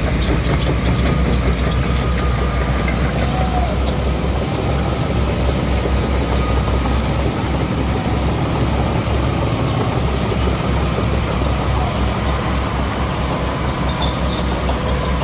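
Heavy diesel machinery running steadily with a deep low rumble: an excavator and the 42-ton XCMG mobile crane it is towing up a steep climb.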